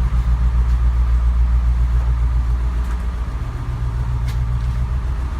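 Engine of a Blue Bird school bus on an International chassis idling steadily shortly after a cold start in below-freezing weather, with one brief click about four seconds in.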